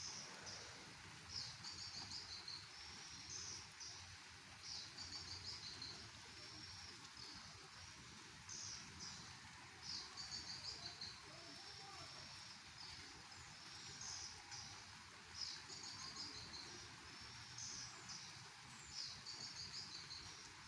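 Faint, steady rain hiss with a high chirping call repeated every second or two, each call a short run of rapid pulses.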